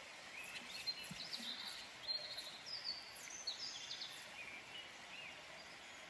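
Songbirds singing, a string of short chirps and trills, over a faint steady hiss of flowing river water.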